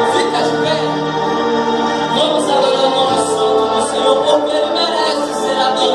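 Gospel worship music with singing: sustained sung notes over steady accompaniment.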